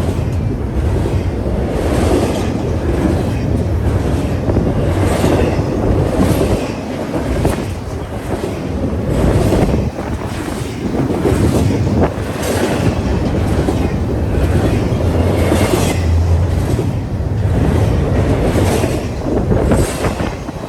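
A train passing close by, its wheels clacking over the rail joints, with wind buffeting the microphone.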